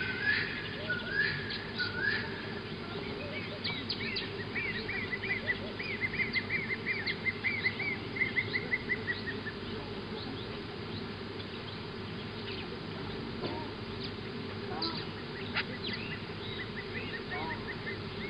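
Wild birds calling: quick runs of short, arched, whistled notes, several a second, in two long series over a steady low background.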